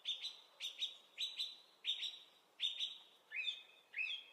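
A bird chirping: short, high chirps that come in pairs, repeating about every two-thirds of a second.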